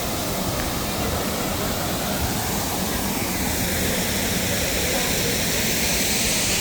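Bellagio fountain jets spraying and falling back onto the water: a steady rush of water that grows hissier over the last couple of seconds.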